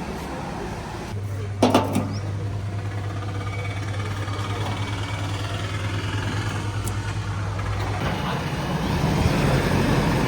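JCB 3DX backhoe loader's diesel engine running steadily, with a few sharp metal knocks just before two seconds in and the engine getting a little louder near the end.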